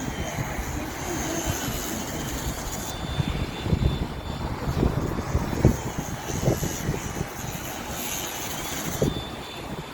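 Tram running with a steady electric motor hum and rumble, pulling away from the stop after its doors close.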